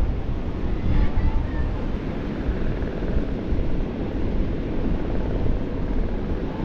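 Low, fluttering wind rumble buffeting the microphone, fairly steady throughout.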